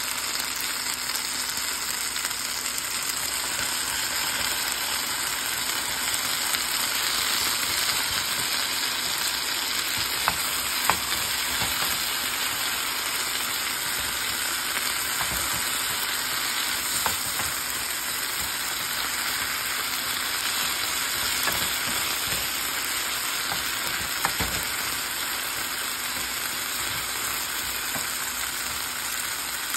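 Onions, celery and rolled oats frying in butter in a frying pan while being stirred with a wooden spoon: a steady sizzling hiss with a few sharp clicks now and then.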